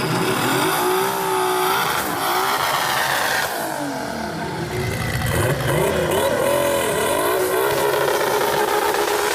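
Turbocharged car engine revving hard, its pitch rising and falling again and again, plausibly the twin-VR6 Volkswagen 'VR12'.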